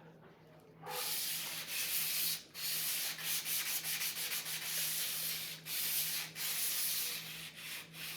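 A blade being sharpened: long rasping strokes of steel on an abrasive, starting about a second in, with short breaks between strokes.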